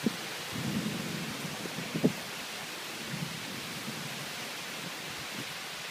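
Heavy thunderstorm rain and wind making a steady hiss, with low thunder rumbling underneath. Two short sharp knocks, one at the start and one about two seconds in.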